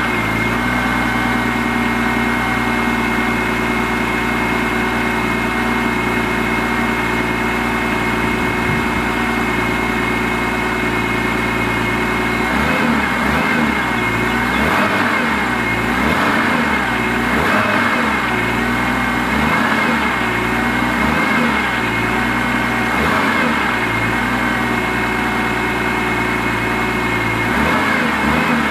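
BMW E46 M3's S54 inline-six idling after a cold start. It runs steadily at first; from about twelve seconds in, the engine note dips and rises again over and over until the end.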